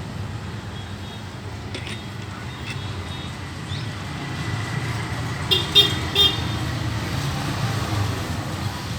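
Passing road traffic rumbling steadily, with three quick horn toots about five and a half to six seconds in.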